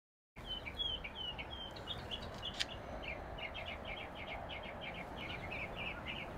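Small birds chirping: short high notes, then a quick repeated chatter of about five notes a second from about three seconds in, over steady outdoor background noise, with a single sharp click about two and a half seconds in.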